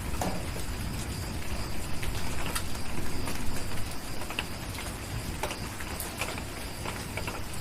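Steady rain with scattered sharp pops and crackles from a wood fire.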